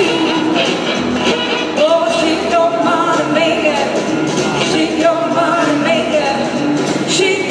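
Live blues-rock band playing, with singing over the band.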